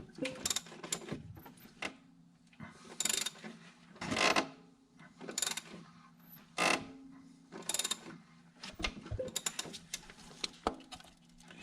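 A 7.3 L Power Stroke diesel being turned over by hand through its alternator pulley: irregular clicks and mechanical scraping strokes of the tool and the rotating engine, the loudest few coming about a second apart in the middle. The engine is being rotated to bring the camshaft lobe down under the lift pump's plunger.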